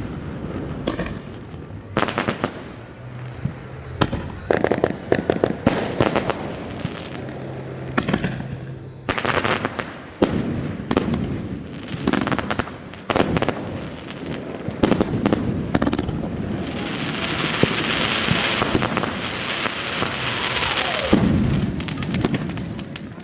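Fireworks display: repeated sharp bangs of shells bursting, with a dense stretch of continuous crackling in the second half.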